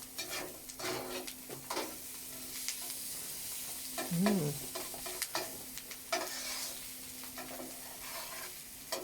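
Tomato paste and sugar sizzling in a hot pan as they caramelise, with a spoon stirring and scraping the pan bottom in short repeated strokes.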